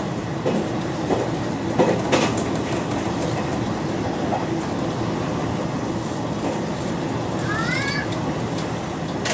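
Aoimori Railway 703 series electric train running, heard from inside the front car: a steady rumble of wheels on rail with a few sharp clicks over rail joints in the first couple of seconds. Near the end come two short rising squeaks.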